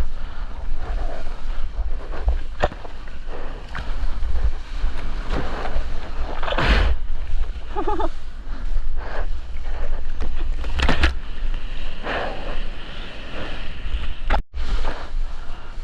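Wind buffeting an action camera's microphone over the sea, with water splashing in short surges, loudest about seven and eleven seconds in.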